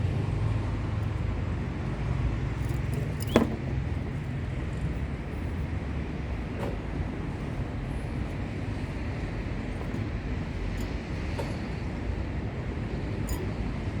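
Steady low background rumble, with one short, sharp sound about three and a half seconds in and a few faint clicks later.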